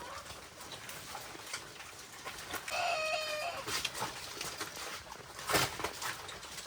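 A farm animal gives one short pitched call about three seconds in, over a steady hiss, with a sharp knock a couple of seconds later.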